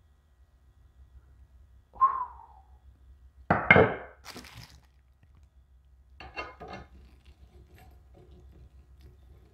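Aluminium pressure-washer extension wand sections knocking and clinking as they are handled. There is a ringing clank about two seconds in, a louder clatter a second and a half later, then a few lighter clicks.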